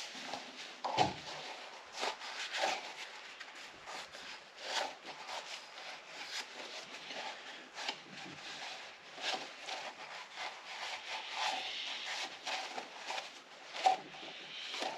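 A rag wiping over the engine's sealing surfaces in many short, irregular rubbing strokes.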